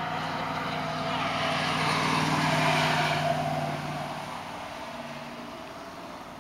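A road vehicle driving past up a hill: engine hum and tyre noise swell to a peak about two and a half seconds in, then fade as it moves away.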